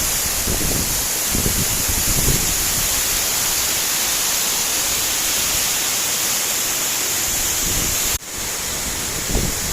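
Loud, steady rush of a fast-flowing river or waterfall, with low wind buffeting on the microphone in the first couple of seconds; the sound cuts off and restarts at a splice about eight seconds in.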